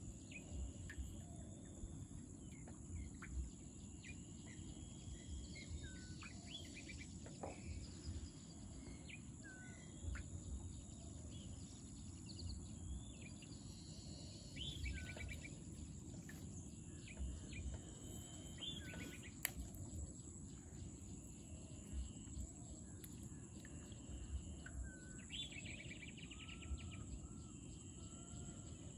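Wild birds calling, with scattered short chirps and sweeping whistled notes, over a steady high-pitched whine and a low rumble.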